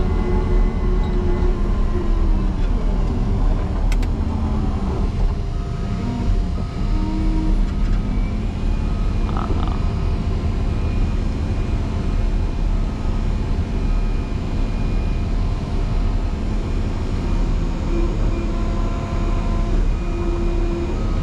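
Motor grader's diesel engine running hard while plowing into a deep snow drift. A couple of seconds in, its pitch sags for several seconds as the engine lugs under the load of the snow, then recovers and holds steady. There is one sharp click about four seconds in.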